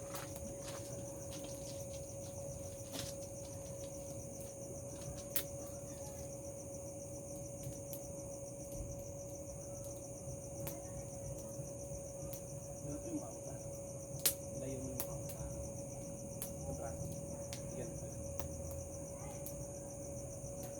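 Night chorus of crickets trilling steadily and high, with a steady lower insect tone beneath it and a few sharp clicks scattered through.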